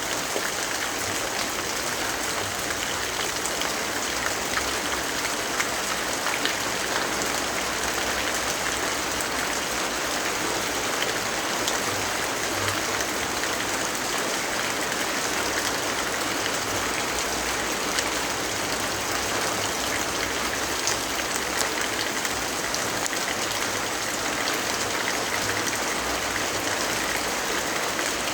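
Steady rainfall, an even hiss with scattered faint ticks of drops.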